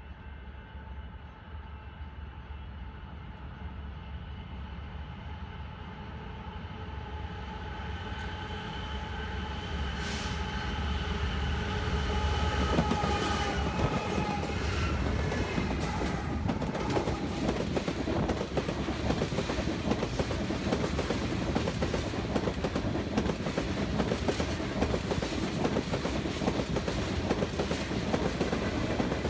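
BNSF freight train passing close by: the diesel locomotives' steady tones grow louder as they approach and drop in pitch as they go by about halfway through. Then the clatter of covered hopper cars rolling past on the rails.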